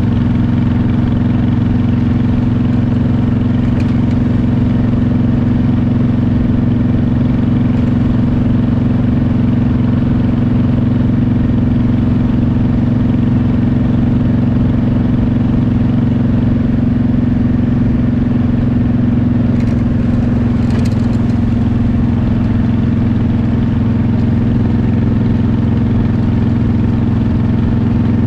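Motorcycle engine running at a steady cruise, an unchanging drone, with a couple of faint clicks about two-thirds of the way in.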